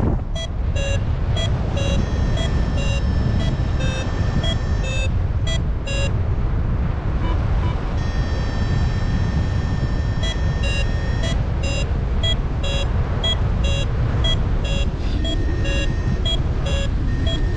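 Paragliding variometer beeping about two to three times a second, signalling climbing air, over heavy wind rush on the microphone. The beeping stops for a couple of seconds about six seconds in, gives way to a held tone for about three seconds, then resumes.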